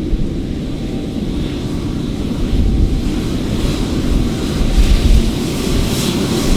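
Jet airliner engines rumbling as the aircraft moves near the runway, with a higher hiss building toward the end; wind buffets the microphone.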